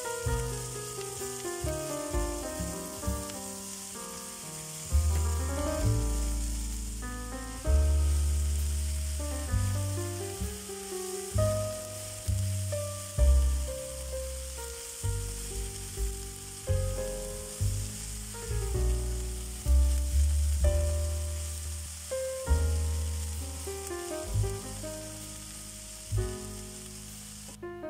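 Sliced onions sizzling steadily in a frying pan and turned with a spatula, under background music with piano-like notes and a deep bass line. The sizzle stops abruptly near the end.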